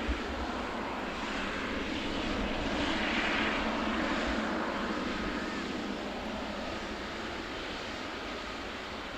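Fixed-wing aircraft engines passing: a steady rush of engine noise that swells to a peak about three seconds in, then slowly fades.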